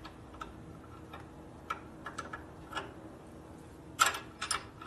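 Scattered light metallic clicks and taps of hand tools working on a motorcycle brake line fitting, with a quick cluster of sharper clicks about four seconds in.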